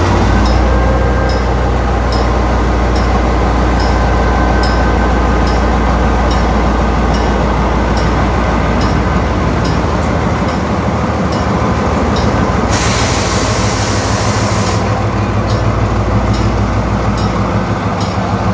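Train running with a steady, loud low rumble and faint regular clicking about twice a second. A burst of hiss comes about thirteen seconds in and lasts about two seconds.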